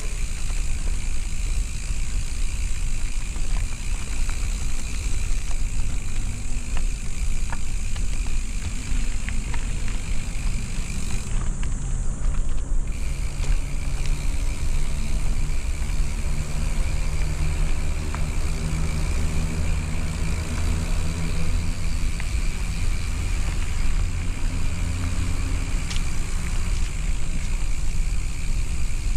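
Motor vehicle engine running on the move under a steady low rumble; from about halfway through its hum becomes clearer and shifts in pitch for several seconds.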